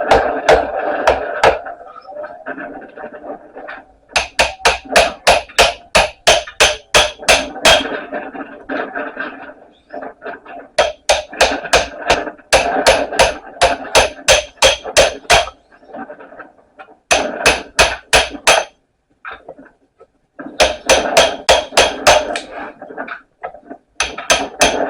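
Hammer blows on a chisel against a microwave oven transformer, metal ringing on metal. The blows come in fast runs of about three a second, with short pauses between runs.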